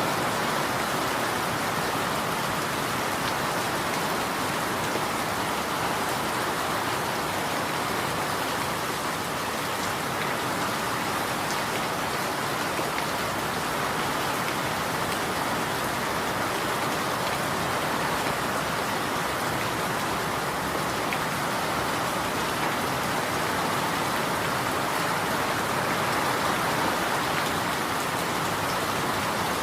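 Steady rain falling, an even hiss of drops on a surface with no thunder or other events.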